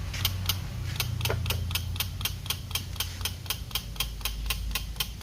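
Rapid, even ticking, about five clicks a second, over a steady low hum from a car undergoing automatic-transmission repair. It is the knocking the mechanic points out as the symptom.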